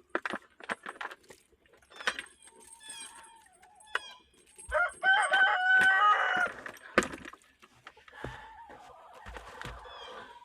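Chickens calling and clucking, with one loud, drawn-out call around the middle and a few sharp knocks near the start.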